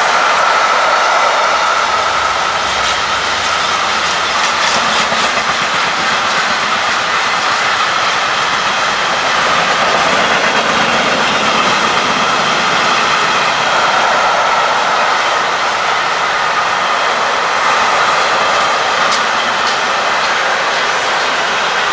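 Freight train wagons rolling past on the rails: a loud, steady run of wheel and rail noise, with a high ringing tone that swells and fades.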